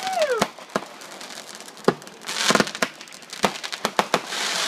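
Fireworks going off: a string of sharp bangs, a whistle that rises and falls right at the start, and two stretches of dense crackling hiss.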